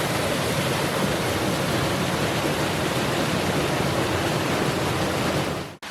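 Mountain creek water rushing steadily and close, an even loud rush; it cuts off suddenly near the end.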